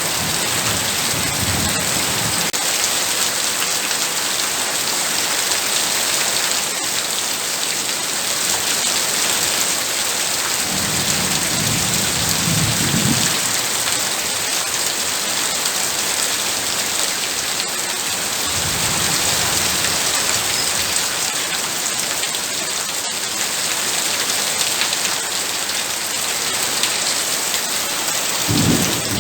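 Heavy rain pouring steadily, with low thunder rumbling several times: at the start, about eleven seconds in, about nineteen seconds in, and again at the end.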